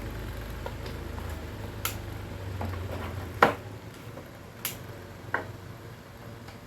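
Sharp clicks and knocks of fan parts being handled during repair, a few strikes with the loudest just past the middle, over a low hum that dies away about halfway.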